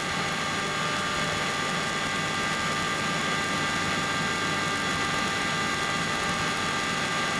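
Helicopter in flight heard from inside the cabin: a steady drone with several constant whining tones above it.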